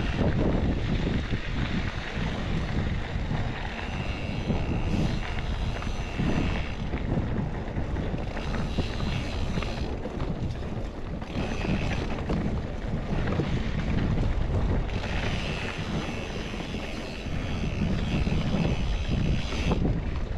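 Wind buffeting the microphone as a steady, rough low rumble, with faint high thin tones coming and going a few times.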